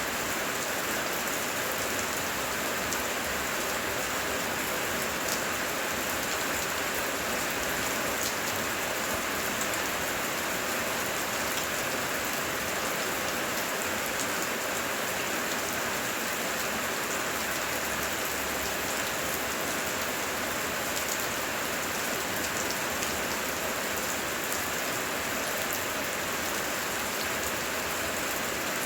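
Heavy rain falling steadily: an even hiss of many drops, unchanging in level, with no thunder.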